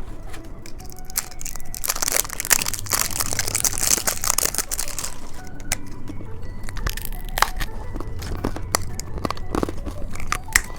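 Plastic candy packaging crinkling and tearing as it is handled. Dense rustling for the first few seconds, then scattered crackles and clicks.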